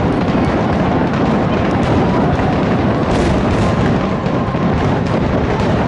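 Fireworks finale barrage: aerial shells bursting in rapid succession, the loud explosions overlapping so closely that they run together without a break.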